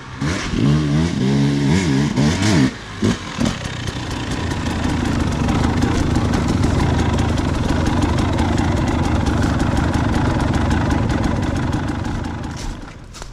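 Dirt bike engine revving up and down in quick throttle blips for the first few seconds, then running steadily under load for several seconds before fading away near the end.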